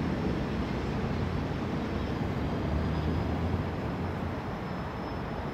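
Steady low rumble of a freight train rolling away across the overpass just after its last car has passed, slowly fading.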